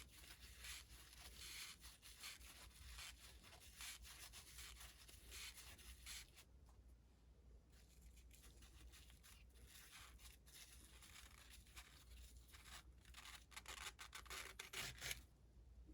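Faint rubbing and scraping of hands working on small metal engine parts, with scattered small clicks, busiest in the first several seconds.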